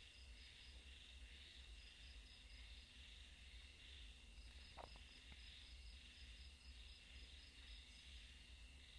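Faint, steady chorus of crickets and other insects with a fine pulsing trill, and a single light tick near the middle.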